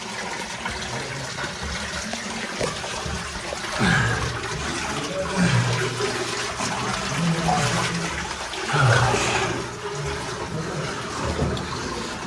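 Spring water running steadily through a cave passage. A few short, low voice sounds falling in pitch come through it, about four, five and a half and nine seconds in.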